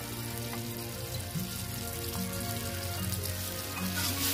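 Ground chili, garlic and shallots sizzling in hot oil in a wok as they are stir-fried, a steady hiss, with soft background music underneath.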